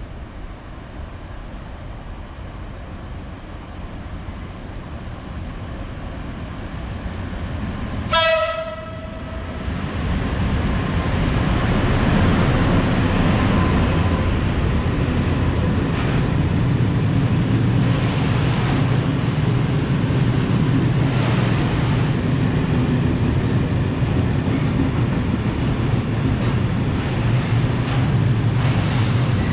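A train approaching, sounding one short horn blast about eight seconds in, then passing close by with a loud, steady low rumble of wheels on rails and faint regular clacks.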